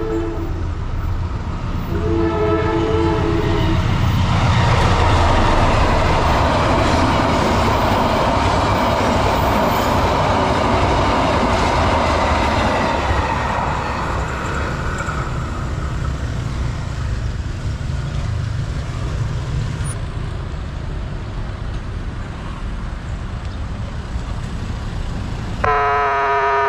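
A train passing through a level crossing at speed: a loud rush of wheel and air noise over a low rumble swells about four seconds in, holds for about ten seconds, then slowly fades. A steady two-tone warning sounds before the train arrives. Near the end the crossing's electronic siren starts up, its pitch stepping and sagging because its tone has deteriorated.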